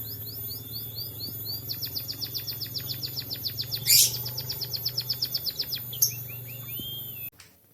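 Emprit kaji munia singing a canary-style song of fast, evenly repeated high trills, with a loud rising sweep about four seconds in, over a steady low hum. The song cuts off suddenly near the end.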